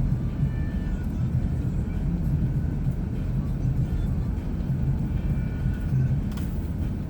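Steady low rumble of a vehicle driving slowly over snow-covered woodland track, with a brief noise about six seconds in.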